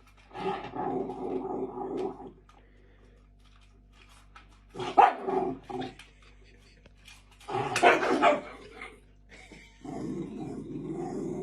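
A dog vocalising in four bouts: a drawn-out call at the start, two short loud outbursts in the middle, and another drawn-out call near the end.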